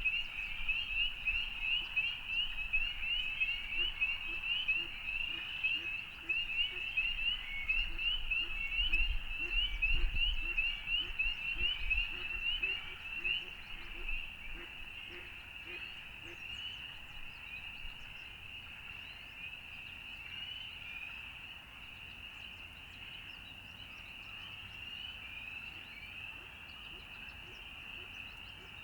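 Chorus of frogs calling, with many short, high, rising peeps overlapping into a dense ringing. It is loudest in the first half and thins and quietens after about halfway. A lower, pulsed call repeats in the middle stretch.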